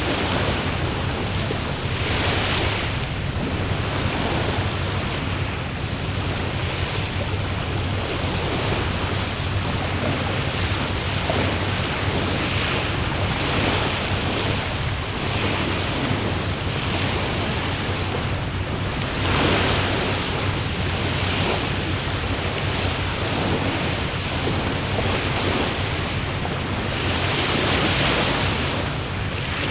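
Wood fire burning: a steady rushing with slow swells every few seconds and a few faint crackles.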